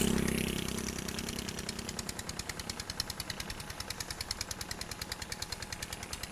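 Engine of a hand tractor plowing a rice paddy, chugging in fast even thumps; its hum is louder for the first couple of seconds, then eases to a steadier, quieter chugging.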